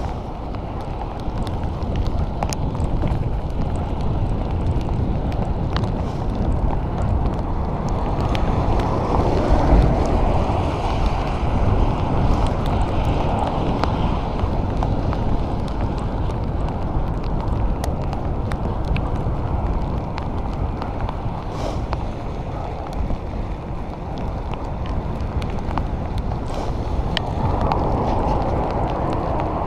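Wind rushing over the microphone of a bicycle in motion, with the hiss of tyres on wet road in the rain; the rush swells and eases, with scattered small ticks.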